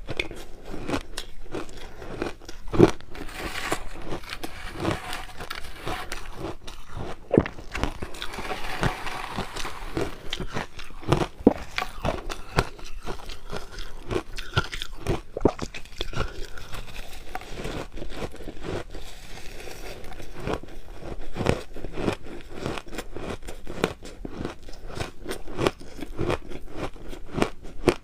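Close-up crunching of crushed ice being bitten and chewed, a steady run of sharp crackling crunches.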